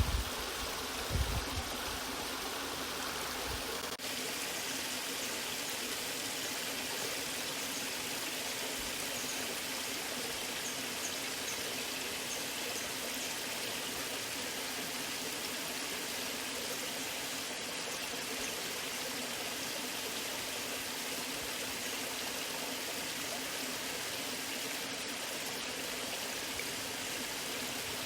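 Waterfall water rushing steadily in an even hiss, with a brief low rumble about a second in.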